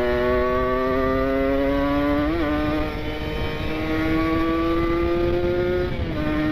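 Kawasaki Ninja 150 RR's two-stroke single-cylinder engine through an R9 aftermarket exhaust, accelerating on the road. Its pitch climbs steadily and drops sharply as it shifts up, once about two and a half seconds in and again near the end.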